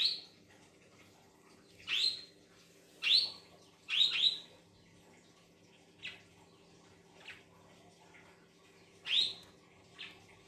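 Budgies chirping: short calls about every second or two, each sweeping quickly up in pitch, some in quick pairs, over a faint steady hum.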